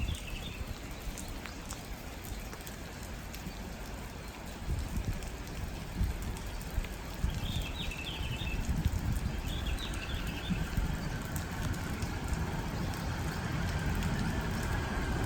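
Steady outdoor hiss with a rumble on the microphone that grows louder toward the end, and a bird chirping briefly three times.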